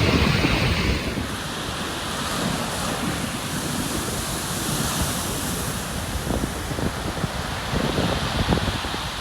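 Wind buffeting the microphone in gusts over a steady rush of sea surf.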